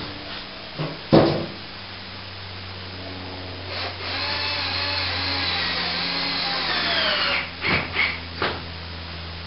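Cordless drill driving a screw into the plasterboard ceiling: the motor runs for about three and a half seconds, its pitch wavering under load and then falling as it winds down. A sharp knock comes about a second in, and a few short clicks follow the drill.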